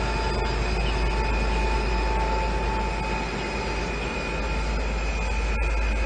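A locomotive-hauled passenger train rolling past over the rails with a steady rumble, joined by a steady high-pitched wheel squeal that fades after about half the time, as a diesel locomotive at the rear of the train draws near.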